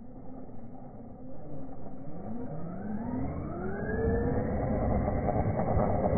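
Traxxas RC car's electric motor whining up in pitch as it accelerates, from about two seconds in, then holding a steady whine at speed, growing louder over a rough hiss.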